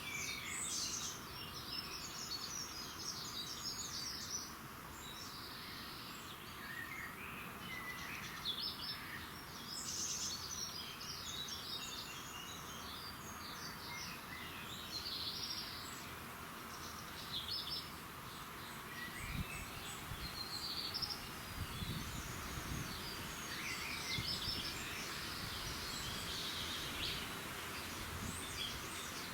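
Many small birds chirping and singing over one another in a dawn chorus, short chirps and trills all through, over a steady outdoor hiss. A few low rumbles come about two-thirds of the way in.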